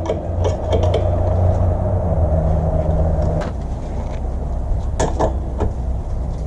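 Honda Forza MF10 scooter engine idling steadily, with a few sharp metallic clicks and knocks, a cluster of them about five seconds in.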